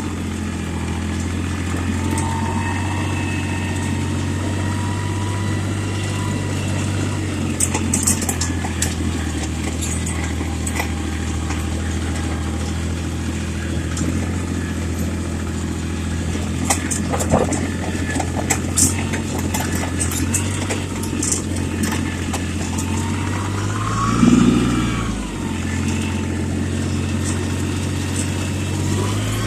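Yanmar compact tractor's diesel engine running steadily under way, with scattered clanks and rattles. About 24 seconds in the engine note briefly swells and dips, then settles back.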